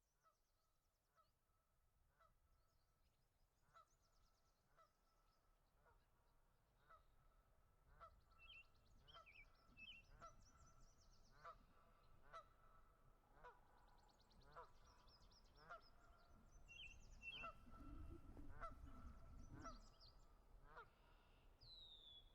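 Faint birds calling: a steady run of short, repeated honking calls, about one or two a second, with higher chirps over them. The calls grow louder through the stretch, and a low rumble rises under them near the end.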